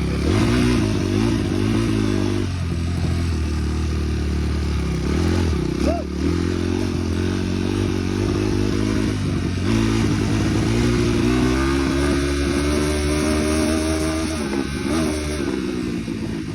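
Dirt bike engine running while being ridden, its pitch rising and falling with the throttle, with brief drops in pitch a few times.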